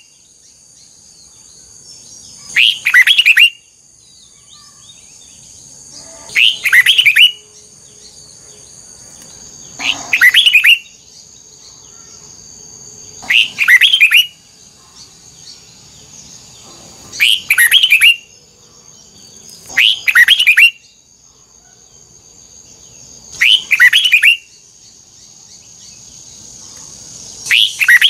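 Red-whiskered bulbul singing: about eight short, loud song phrases, each roughly a second long, repeated every three to four seconds. A faint, steady, high-pitched whine runs underneath.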